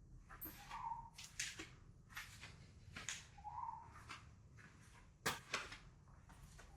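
Footsteps at a steady walking pace, a short crisp step roughly every half second to second, the loudest a little past five seconds in.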